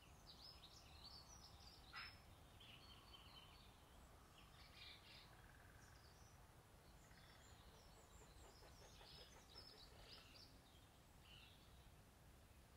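Faint, high-pitched bird chirps coming in clusters over near-silent room tone, with one sharp click about two seconds in.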